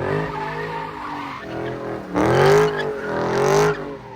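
A car's engine revving hard in rising and falling sweeps while its tyres squeal as it slides, loudest in two surges about two and three and a half seconds in.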